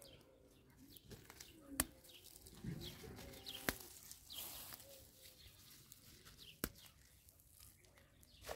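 Faint outdoor ambience with small birds chirping now and then, and three sharp clicks spread through it.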